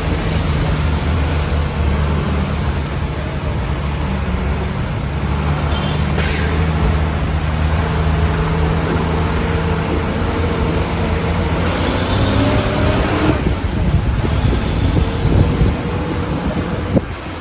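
Motor vehicle engine running with steady road noise, and a short hiss about six seconds in.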